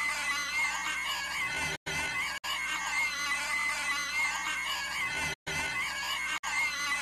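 A cartoon girl's inhuman, pig-like shrieking noise, a short clip looped over and over. It restarts about every three and a half seconds, with a brief drop-out at each join.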